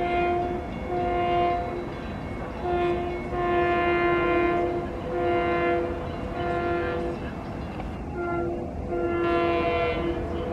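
Train horn sounding a long series of short blasts, roughly one a second. Each blast is the same steady chord of several notes.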